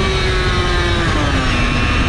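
Yamaha TZ250 two-stroke V-twin racing engine running at high revs, its pitch holding and then falling in a step about a second in as the revs drop.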